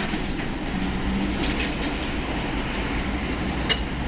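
Heavy container trucks passing, a steady low rumble with a few light clanks and rattles.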